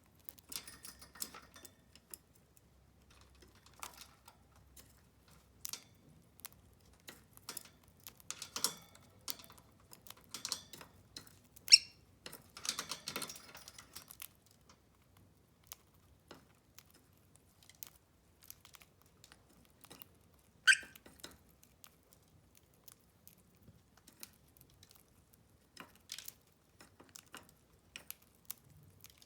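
Rosy-faced lovebirds cracking and hulling unhulled seeds with their beaks: irregular sharp clicks and small crunches, busiest in a stretch around the middle.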